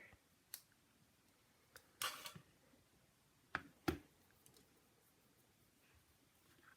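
Paper and tools being handled on a craft table: a light click, a short rustle of paper about two seconds in, then two sharp taps in quick succession a little under four seconds in, against quiet room tone.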